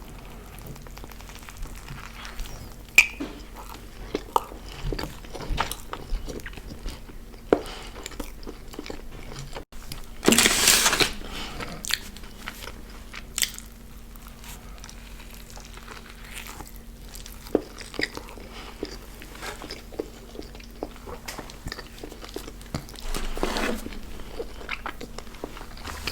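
Close-miked eating of fast food: scattered bites, chewing and mouth clicks, with a louder noise lasting about a second around ten seconds in and again near the end. A faint steady hum sits underneath.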